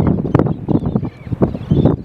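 Wind buffeting the microphone in uneven low rumbles, with a few faint, short bird calls above it.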